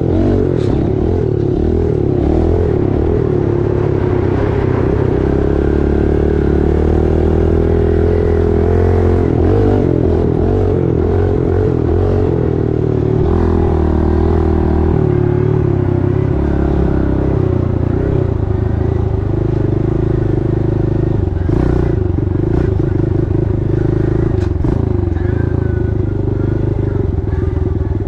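Pit bike engine running under throttle while riding, its note holding fairly steady and easing slightly about halfway through.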